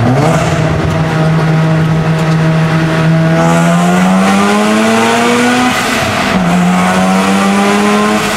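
Mazda RX-7 FD3S's single-turbo 13B rotary engine pulling hard, heard from inside the cabin: the revs jump up at the start, climb, dip at a gear change about six seconds in, then climb again. A high whistle runs over the engine from about three seconds in.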